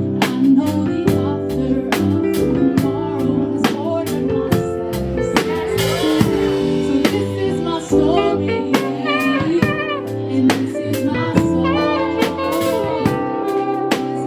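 Live gospel band music: held chords over a steady drum-kit beat with about two hits a second, and a wavering melody line that rises up over the band about eight seconds in.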